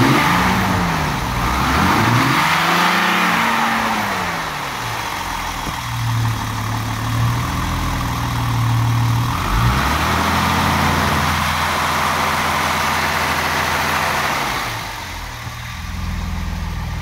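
Warm Mercedes-Benz 230SL fuel-injected straight-six revved by hand at the throttle linkage: a couple of quick revs rising and falling in the first few seconds, a return to idle, then revs raised and held steady for about five seconds before dropping back to idle near the end.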